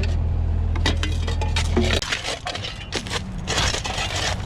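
An engine running steadily that shuts off about two seconds in, under scraping and knocking of broken concrete chunks being worked. The scraping grows busier near the end.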